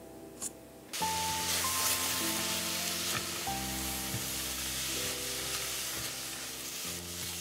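Chopped mushrooms and celery sizzling in hot oil in a stainless steel saucepan, starting suddenly about a second in as they hit the pan and going on steadily while they are stirred. A single click from the hob knob comes just before.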